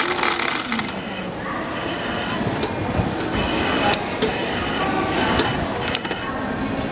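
Automatic ticket vending machine at work, a series of sharp mechanical clicks as it prints and issues the ticket, over the hubbub of a station concourse.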